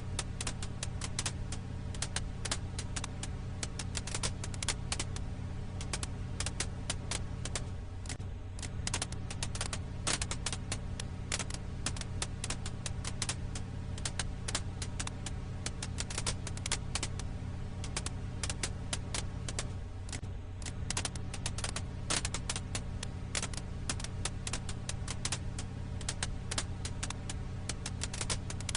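Wood fire crackling: dense, irregular pops and snaps of burning firewood over a steady low hum.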